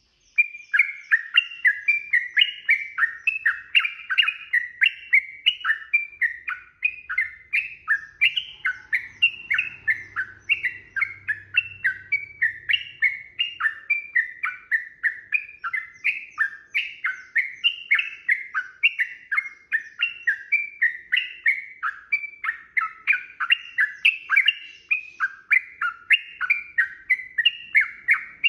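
Sooty-headed bulbul (trucukan) singing a long unbroken run of quick, chirpy phrases, about two to three notes a second.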